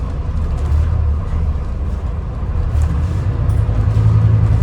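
Scania N250UD double-decker bus's five-cylinder diesel engine running, heard from inside the bus as a low drone, growing louder and a little higher in pitch near the end as it picks up.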